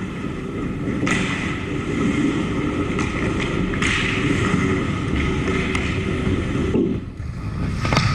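Ice hockey game on a rink: a steady low rumble with sharp scrapes and knocks from skates, sticks and puck several times, and a loud strike near the end.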